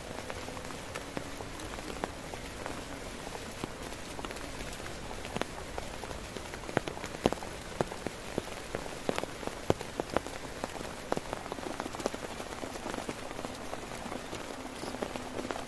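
Heavy rain falling steadily on a tent, with many sharp, louder drop strikes on the fabric that come thickest in the middle stretch.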